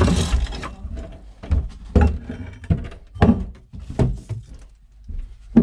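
Irregular knocks and thuds, about seven or eight in a few seconds, the last and sharpest at the very end, with a boxy small-room echo.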